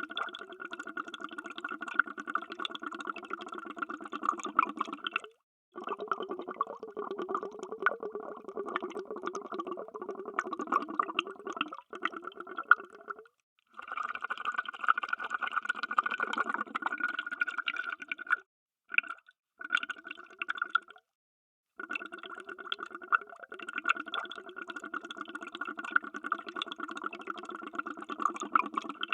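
Underwater bubbling: a dense stream of bubbles crackling and gurgling, broken by several brief, sudden silences.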